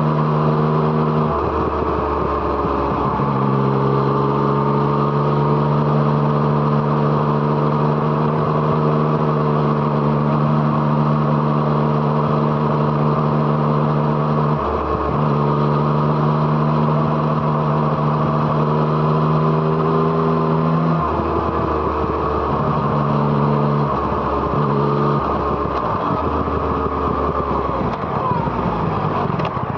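Yamaha MT-09's 847 cc three-cylinder engine through an Arrow Thunder exhaust, running under riding load at a steady note. Several short breaks come where the note drops out and picks up again at a new pitch, about 1.5 and 3 seconds in, near the middle, and several more in the last third.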